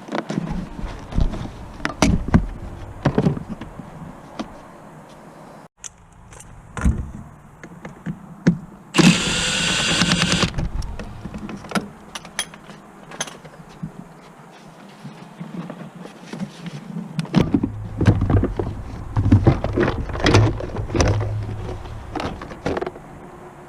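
Hand tools and metal parts clanking and knocking during work on a car, with one loud burst of a power tool or spray, about a second and a half long, starting about nine seconds in.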